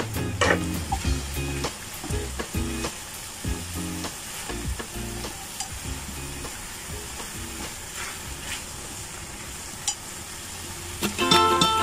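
Sliced angled loofah, carrot and black fungus sizzling in a frying pan as a utensil stirs and tosses them, with scattered clicks of the utensil against the pan. Background music sits low under the sizzle and comes in loudly near the end.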